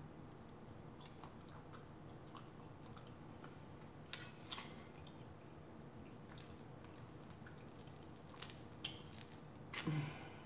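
Close-miked chewing and wet mouth sounds of someone eating fried chicken wings, quiet and sparse, with a few sharp clicks and a louder mouth sound near the end.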